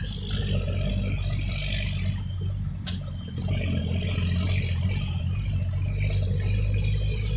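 Boat motor running steadily, with a single sharp click about three seconds in.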